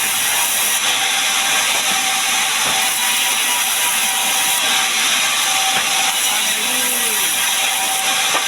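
Sawmill saw cutting a gmelina log into boards: a loud, steady hiss of sawing with a steady whine running under it.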